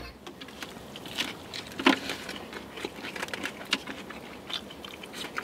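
Two people biting into and chewing tacos: quiet mouth and chewing sounds with scattered small crunches and clicks, a louder crunch about two seconds in.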